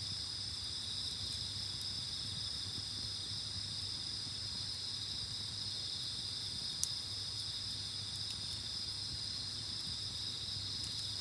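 Steady, continuous high-pitched trilling of an insect chorus, with a low steady hum beneath and a couple of faint clicks.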